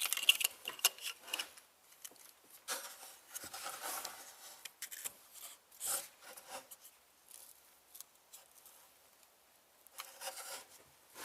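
Hand work on an engine that is switched off: scattered clicks and rubbing of plastic and metal as a new ignition coil is handled and pushed down into its spark-plug well.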